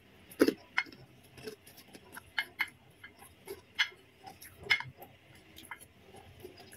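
Close-miked chewing of crispy krupuk crackers and fried noodles: irregular soft crunches and sharp mouth clicks. A fork knocks and scrapes in the bowl near the end.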